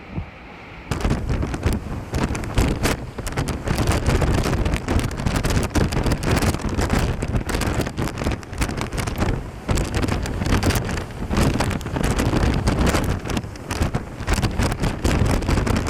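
Typhoon wind gusting hard against the microphone, a loud, rough rush with constant crackling buffeting, starting abruptly about a second in.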